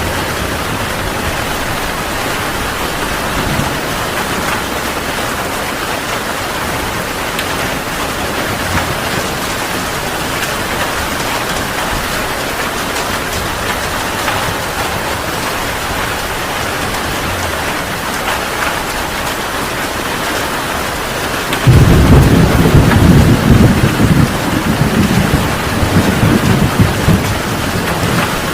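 Heavy rain falling steadily. About three-quarters of the way through, thunder starts suddenly and rumbles loudly and low until the end.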